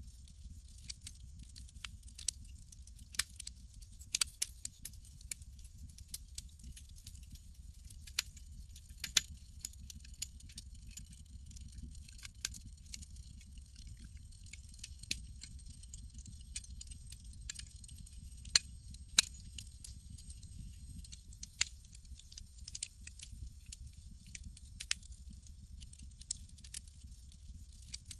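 Campfire crackling: irregular sharp pops and snaps, a few much louder than the rest, over a steady low rumble and a faint high hiss.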